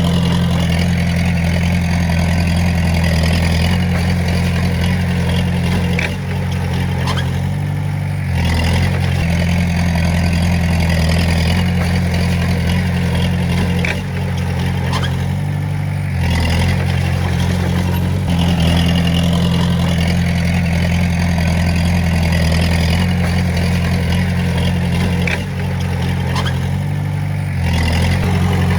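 Diesel engine of a Komatsu D20A bulldozer working steadily, its note dipping and picking up again about every ten seconds as the load changes.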